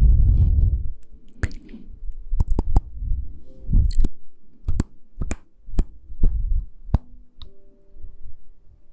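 Close-miked ASMR handling sounds: irregular sharp clicks and taps, with low muffled thumps and rubbing on the microphone about every three seconds.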